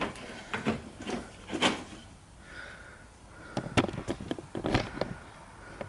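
Scattered light knocks and clicks of hands-on work on the engine and crane, with a quick run of sharper clacks about three and a half to five seconds in.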